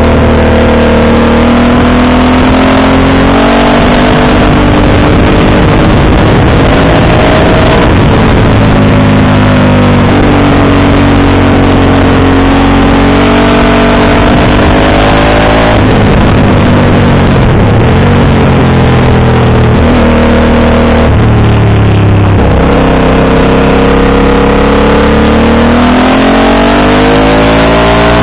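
Motorcycle engine running through a JC exhaust under way, its note repeatedly rising under acceleration and dropping off, several times over, over steady wind and road noise.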